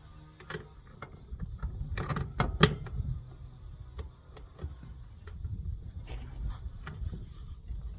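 A string of irregular clicks and knocks from equipment being handled, loudest about two and a half seconds in, over a low rumble.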